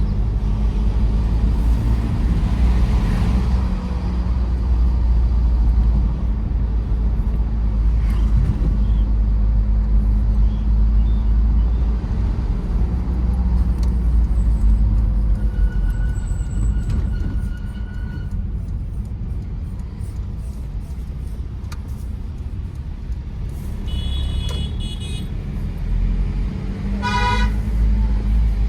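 Tata Safari Storme diesel SUV on the move, a steady low engine and road rumble, with vehicle horns honking: one held honk of about two seconds around the middle, and shorter honks near the end, the last a quick series of beeps.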